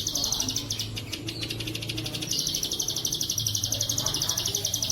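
Bren cicada buzzing in fast, evenly pulsed high-pitched phrases: one trails off about a second in, and a louder phrase starts just after two seconds and runs on, over a steady low hum.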